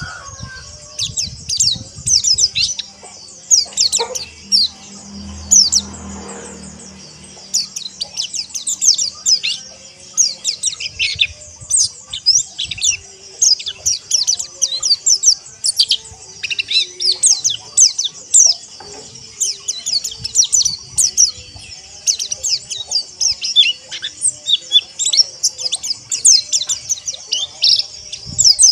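A crowd of white-eyes (pleci) chirping and twittering together, with many rapid, high, overlapping calls.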